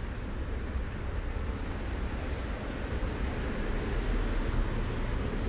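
Gusty thunderstorm wind buffeting the microphone with a steady rushing hiss, growing a little louder toward the end.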